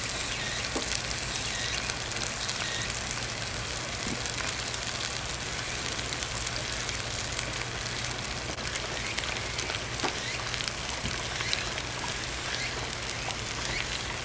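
Wood campfire burning: a steady hiss with scattered small crackles.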